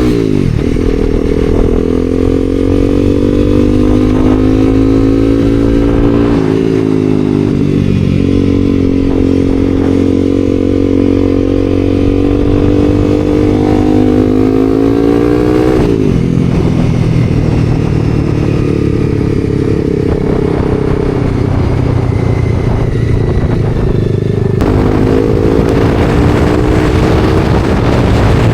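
Honda CBR300R's single-cylinder engine under way, its pitch climbing slowly as the bike gathers speed and dropping suddenly at gear changes about six and sixteen seconds in, with wind rush on the microphone throughout.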